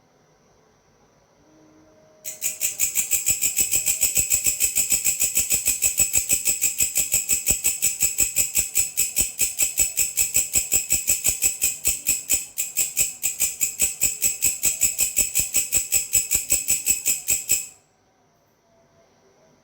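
A belalang (grasshopper-type insect) calling: a high, dry, rapidly pulsed buzz of about five or six even pulses a second, starting suddenly a couple of seconds in, holding steady for about fifteen seconds and cutting off abruptly.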